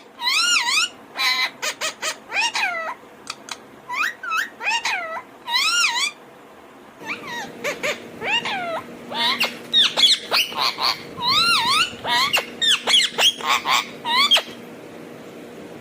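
Ringneck parrot chattering in quick runs of short, sweeping whistle-like calls, stopping about a second before the end. A steady low hum sits underneath from about halfway.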